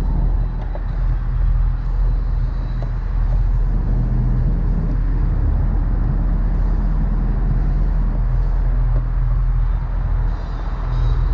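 A motor vehicle's engine running steadily, with a low, even drone.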